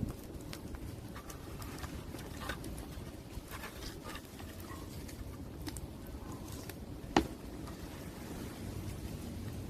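Open fire crackling: scattered small pops and snaps over a low steady rush, with one sharp, much louder pop about seven seconds in.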